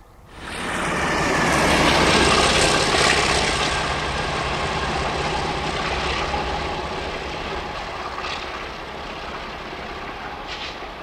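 Diesel-hauled freight train passing close by: the locomotive's engine runs under the rumble and rattle of wagons on the rails. The sound begins abruptly, is loudest about two seconds in, then slowly eases off, with a couple of sharp clanks near the end.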